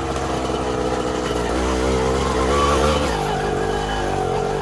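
Dirt bike engine running under throttle, its pitch rising and falling as the revs change.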